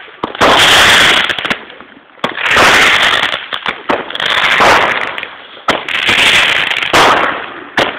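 Roman candles firing repeatedly: a string of loud hissing whooshes with sharp pops, one every second or two.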